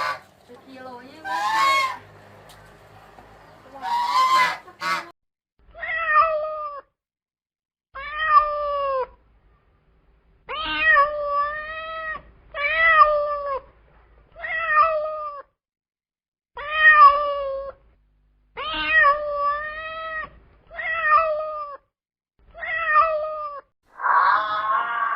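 Domestic cat meowing again and again, about ten drawn-out meows a second or two apart.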